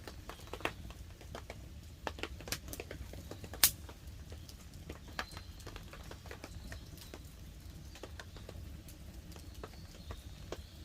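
Wood campfire crackling, with irregular sharp pops and snaps, the loudest about three and a half seconds in, over a steady low rumble; light rain patters on the tarp.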